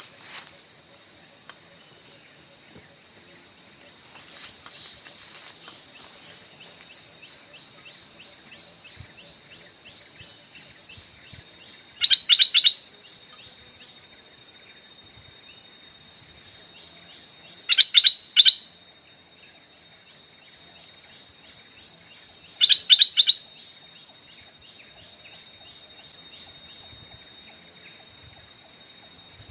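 Stripe-throated bulbul calling: three short, loud bursts of quick repeated notes about five to six seconds apart, over a steady high background tone.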